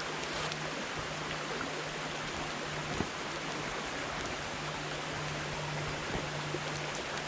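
Wood campfire burning with a steady hiss of flame and a few sparse crackles, one sharper pop about three seconds in.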